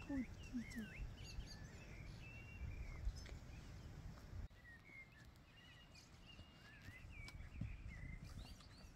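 Several small songbirds singing and chirping, short rising and falling warbles repeating throughout. A low rumble lies under the first half and stops abruptly about four and a half seconds in.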